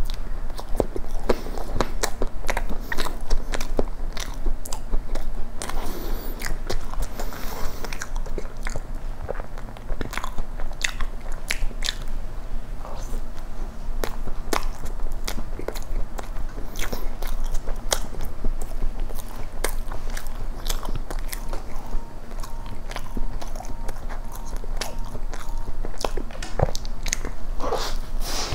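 A person biting and chewing a moist chocolate cream cake close to the microphone: wet, soft mouth sounds with many small clicks throughout.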